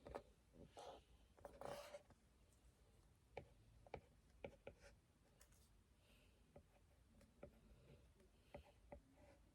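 Faint scratching strokes of a drawing tool on a surface, two short ones in the first two seconds, then scattered light clicks and taps.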